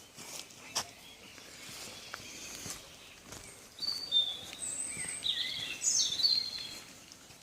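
A songbird singing a quick run of short, sliding high-pitched notes through the second half, over steady background noise, with a couple of sharp clicks in the first second or so.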